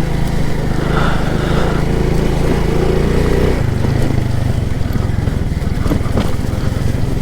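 Motoland Alfa moped's engine running under way, its note shifting lower about halfway through.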